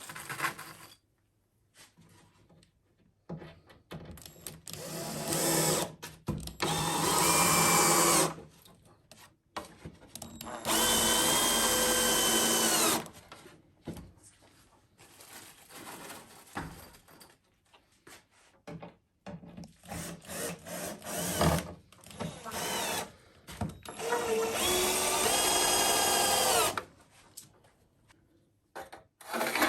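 Electric drill working wood in several runs of two to three seconds each, with short knocks and handling sounds of tools and boards between them.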